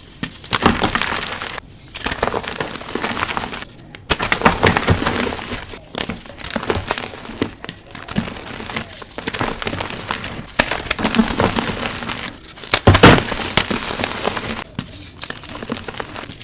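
Gym chalk being crushed: a dense, crunchy crackling that comes in spurts of a second or more, split by short pauses. The loudest crush comes about thirteen seconds in.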